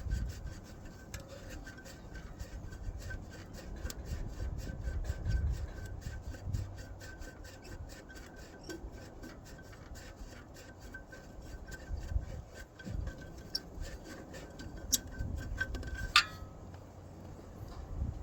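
Ratchet wrench clicking rapidly and evenly, several clicks a second, as an engine mounting bolt is backed out. The clicking stops with a louder clunk near the end.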